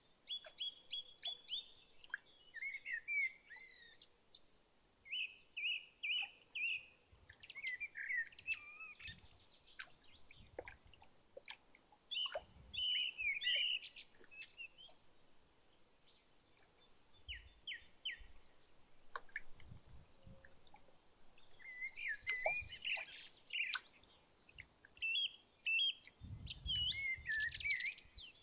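Wild songbirds singing and calling in woodland: clusters of quick chirps and whistled phrases with quieter gaps between them. A short low rumble comes about two seconds before the end.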